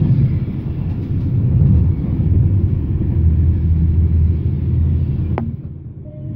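Low running rumble of a moving passenger train heard from inside the carriage, with a single click about five seconds in and a short quieter spell near the end.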